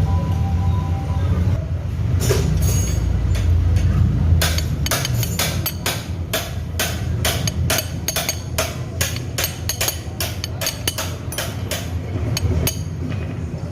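Light hammer taps seating a new crankshaft oil seal into a Honda Beat FI scooter's crankcase on the CVT side. There are a few strikes about two seconds in, then a steady run of short taps, roughly two or three a second, from about four seconds in almost to the end, over a low steady rumble.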